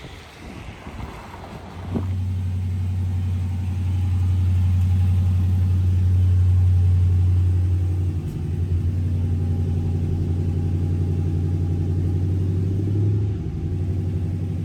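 A car engine starts about two seconds in and runs at a steady idle, its level swelling and easing a little.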